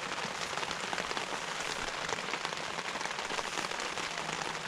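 Heavy rain falling steadily on the tent and tarp, a dense, even hiss of countless small drop impacts.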